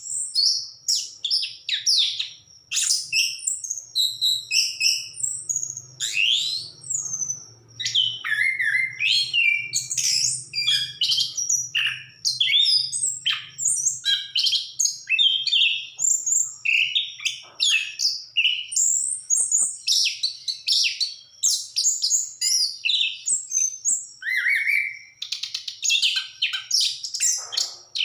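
Orange-headed thrush singing continuously: a fast, varied stream of whistled and chattering phrases with hardly a pause.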